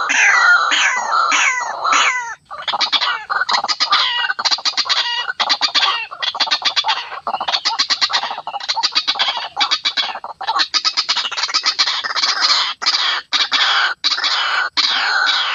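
White-breasted waterhens calling loudly without pause: a run of repeated falling calls, then a fast rattling chatter through the middle, and falling calls again near the end.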